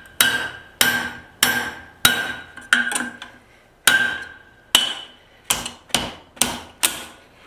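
Hand hammer striking a steel drift or punch about a dozen times, each blow ringing sharply, to expand the punched pivot hole in a hot tong boss to about 3/8 of an inch.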